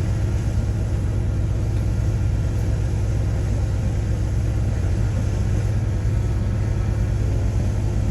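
Diesel engine of a heavy earthmoving machine running steadily, with a deep, even engine note.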